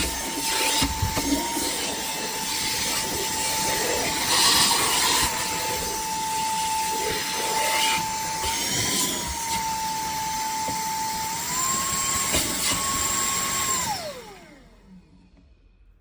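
TANYO cordless handheld vacuum cleaner running with a steady motor whine, with knocks and clatter of the nozzle against surfaces. About three-quarters of the way through, the whine steps up to a higher pitch. Near the end it is switched off, and the whine falls away as the motor spins down.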